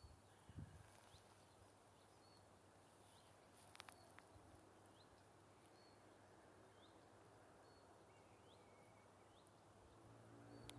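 Near silence with a bird faintly repeating a short rising call about once a second, and a faint click about four seconds in.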